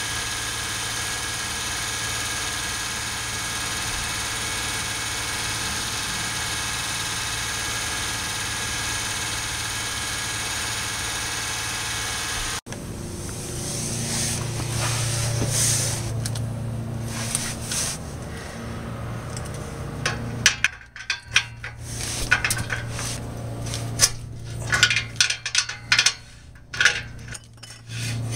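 Honda Odyssey V6 engine running steadily, heard from under the car. After a cut about 12.7 s in, the engine has stopped and a hand knocks and rubs on the catalytic converter's metal heat shield, making irregular knocks and scrapes from about 20 s in.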